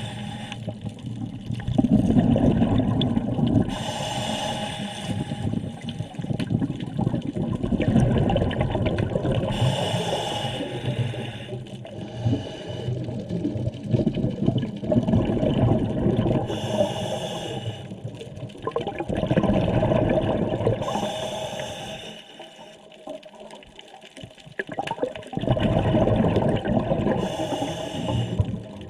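A scuba diver breathing through a regulator underwater: four hissing inhales several seconds apart, each followed by a long burble of exhaled bubbles.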